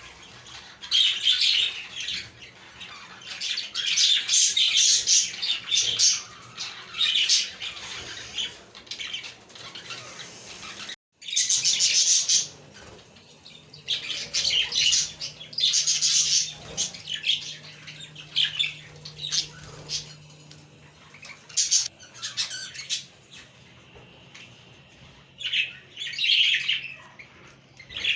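Budgerigars chirping, warbling and squawking in bursts, several birds at once, with a split-second break about eleven seconds in.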